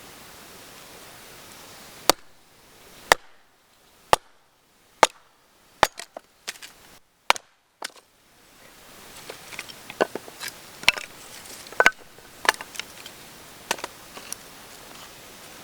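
Wood fire crackling: sharp, single pops about once a second, then denser, irregular crackling and snapping from about nine seconds in.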